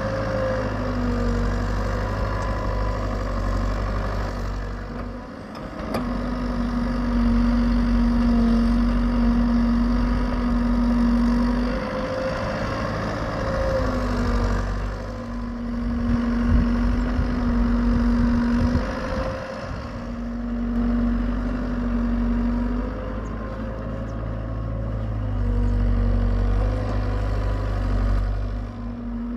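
Hitachi EX75UR excavator running steadily while digging, its diesel engine holding a low steady hum, with a whining tone that comes in for spells of several seconds and drops out again, four or five times over.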